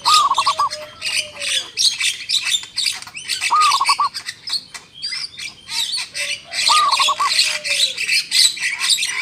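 A chorus of many wild birds chirping and chattering together. Over it, one louder call repeats about every three seconds: a few quick arched notes, then a lower falling whistle.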